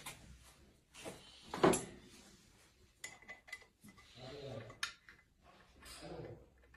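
Metal hand tools and parts clinking and knocking, with one louder clank about one and a half seconds in.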